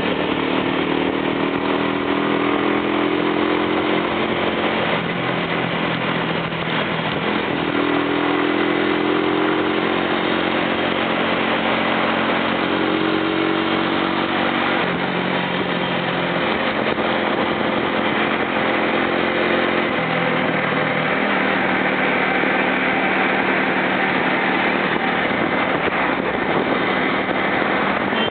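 Freeway traffic: a steady rush of engine and tyre noise, with the low drone of truck engines that swells and falls away several times as trucks are passed.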